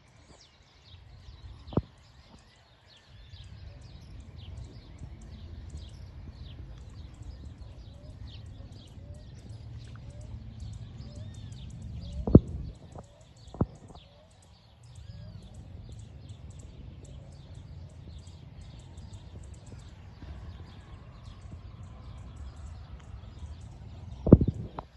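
Many small birds chirping, with gusty wind buffeting the microphone in long stretches as rain approaches. There are a few sharp knocks, the loudest about halfway through and near the end.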